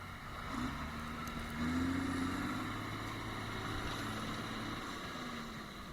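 Vehicle engine running steadily, picking up briefly about one and a half seconds in, then easing back.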